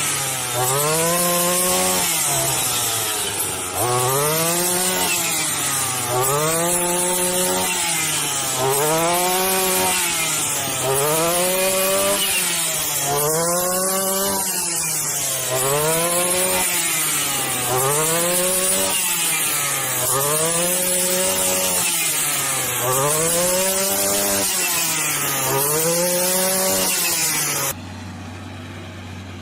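A machine running in a repeating cycle, its pitched drone rising and falling about every two seconds with a harsh rasping, sawing-like noise over it. Near the end it cuts off abruptly to a quieter, steady low hum.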